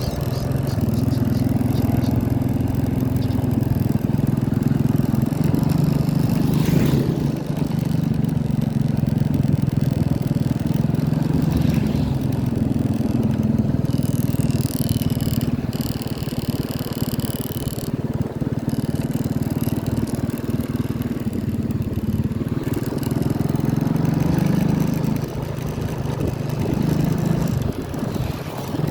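Tractor engine running steadily, its pitch shifting slightly a few times.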